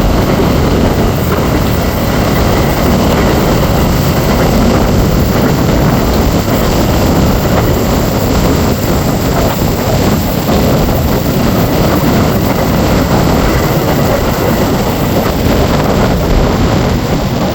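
Train running, a loud steady rumble with a faint high whine above it.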